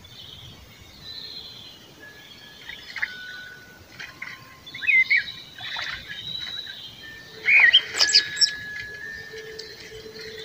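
Woodland birdsong: several birds chirping and whistling over a faint background hush. A cluster of louder quick chirps comes near the end.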